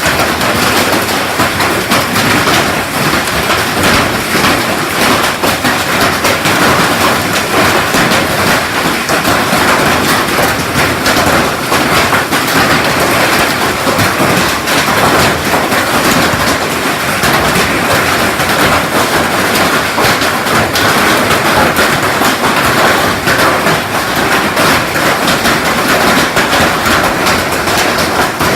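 Heavy hail falling: a loud, steady clatter of countless hailstones striking, dense and without a pause.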